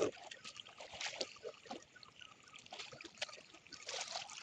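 Shallow stream water trickling and sloshing, with irregular small splashes and knocks as hands search the stream bed for snails.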